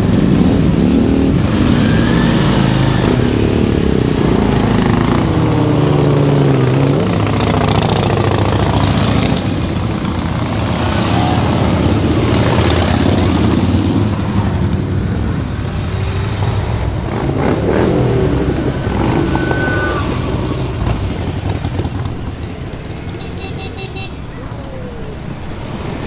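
A group of motorcycles riding past, many engines overlapping with revs rising and falling, growing fainter over the last few seconds.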